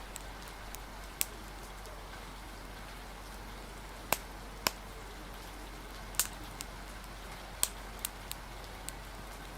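Steady hiss of rain, with a wood fire crackling through it: sharp, single pops at irregular moments, about eight in all.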